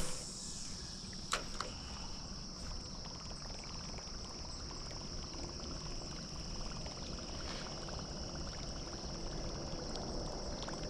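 Crickets chirring in a steady, high, unbroken drone, over faint water lapping around the kayak. A few light knocks come near the start and again after a second and a half.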